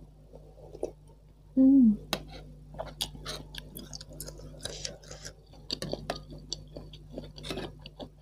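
Close-up eating sounds: chewing of bakso aci, chewy tapioca-flour meatballs, with wet mouth noises and sharp clicks of a metal spoon against a stainless steel pot. About a second and a half in comes one short, loud hum from the eater's voice, falling in pitch.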